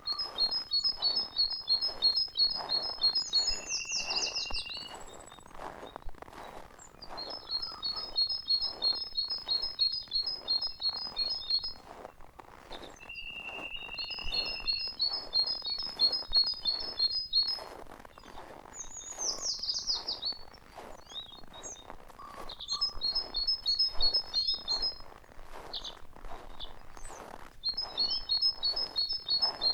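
A songbird repeatedly singing a fast, high trilled phrase about three seconds long, several times over; twice it ends in a quick falling flourish. Soft, regular crunching footsteps in snow run underneath.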